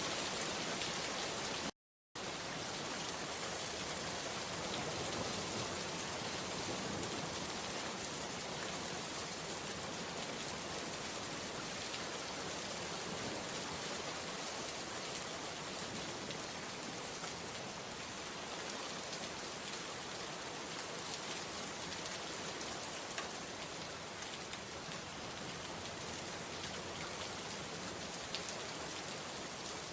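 Steady rain falling, an even hiss with scattered drop ticks. The sound cuts out completely for a split second about two seconds in, then resumes unchanged.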